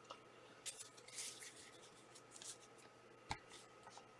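Faint handling of trading cards: soft rustles and scrapes as cards slide past one another, with one sharper tap a little over three seconds in.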